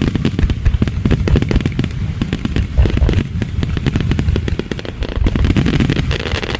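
Fireworks display: a dense, rapid run of bangs and crackles from many shells bursting in quick succession, with deep booms underneath.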